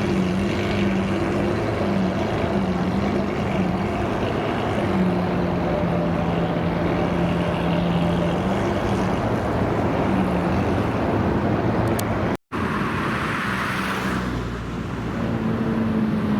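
A car engine idling with a steady hum that wavers slightly. About twelve seconds in, the sound cuts out for a moment and another engine runs with a brief hiss, rising slightly near the end.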